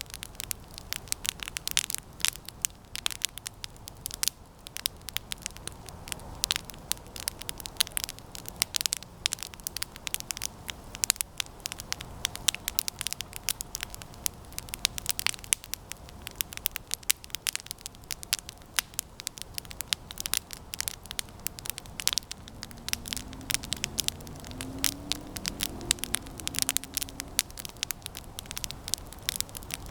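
Campfire of resinous pine branches crackling, with dense, irregular sharp pops and snaps throughout over a low steady rush of burning.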